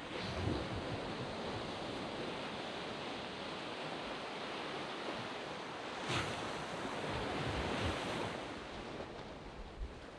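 Surf washing onto a sand beach: a steady wash of breaking waves, with a wave breaking louder about six seconds in and the wash easing off near the end.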